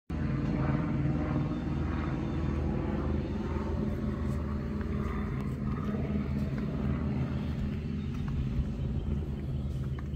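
6.2-litre LT1 V8 of a 2014 Corvette Stingray idling steadily, through long-tube headers with the catalytic converters cut off.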